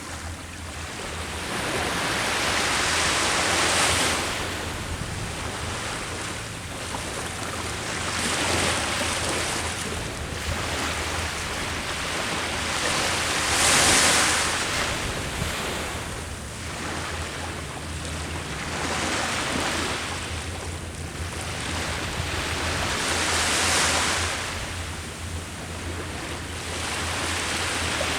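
Ocean waves breaking and washing on the shore, a surge about every four to five seconds, the biggest about halfway through, over a steady low rumble of surf.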